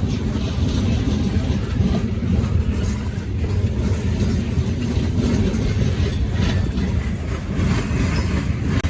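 Freight train rolling past, its cars making a steady low rumble, with strong wind buffeting the microphone.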